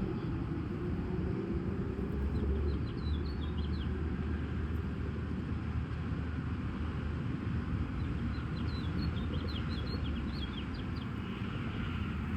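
A small songbird giving two short runs of quick, high chirps, about three seconds in and again near the middle. Behind it runs a steady low rumble of outdoor background noise.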